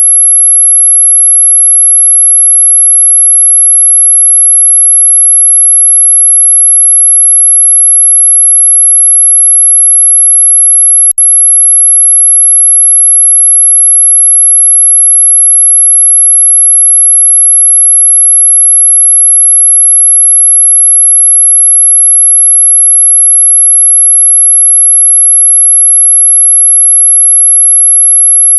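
A single steady, very high-pitched pure tone, the kind sold as an electronic mosquito-repellent sound, played loud and unchanging. There is a brief click with a momentary dip in level about eleven seconds in.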